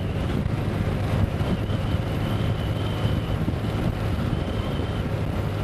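An engine running steadily with a deep hum and a faint high whine over it.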